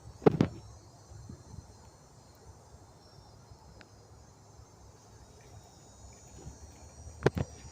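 Insects chirring steadily in a high, even drone. Two sharp knocks break in, one just after the start and one near the end.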